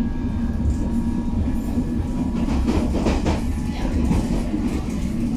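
Interior of a London Underground District Line train running: a steady rumble of wheels on track with faint steady whining tones. A short, louder rattle about two and a half seconds in, like wheels running over rail joints.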